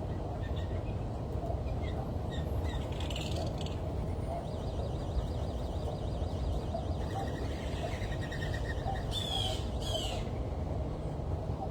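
Small wild birds chirping and calling: scattered short chirps, a rapid trill in the middle, and two short downward-sliding calls near the end, over a steady low rumble.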